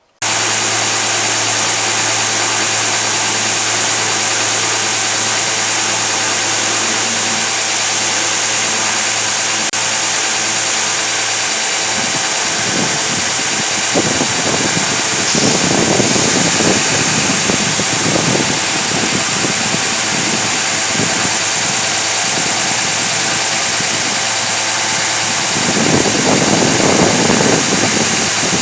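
A shop machine running steadily with a low hum. From about twelve seconds in, irregular louder surges join the steady noise, and they come back more strongly near the end.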